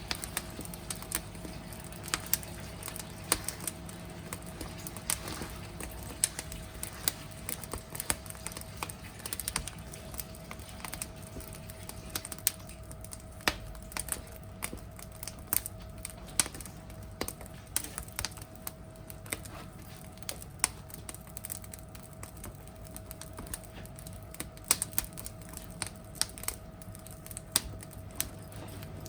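Wood fire crackling, with irregular sharp pops and snaps over a faint steady hum.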